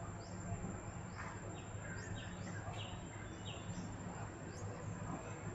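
A bird chirping: short, quick, falling chirps repeated about twice a second, over a steady low hum and a thin, steady high-pitched tone.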